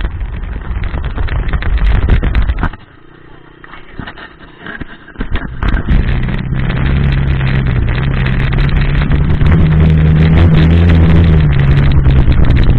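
Dirt bike engine running close by: loud at first, dropping away after about three seconds, then back about five seconds in and running steadily, its pitch rising a little and then easing back.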